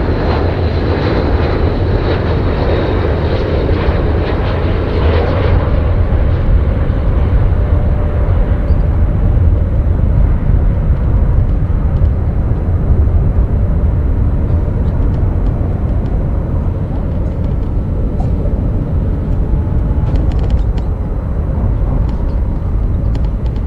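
Airbus A319 jet aircraft noise: a steady low rumble of engines and airflow, with a higher hiss that fades away over the first several seconds.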